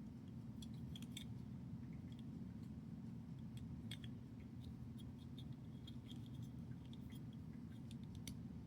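Small plastic building bricks clicking and ticking now and then as they are handled and pressed together, over a steady low hum.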